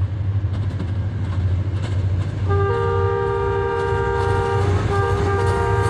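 Diesel locomotive's multi-tone air horn sounding a long, loud chord from about two and a half seconds in, with a short break about two seconds later, over the steady low rumble of the running train.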